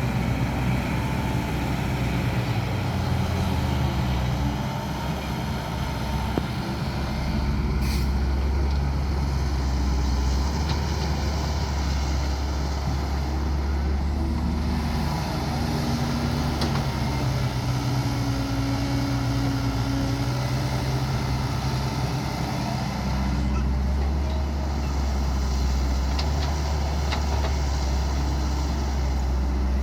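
Diesel engine of a Cat E120B excavator running under working load, its hum rising and falling as the digging and loading cycle changes the load. A short sharp noise comes about eight seconds in.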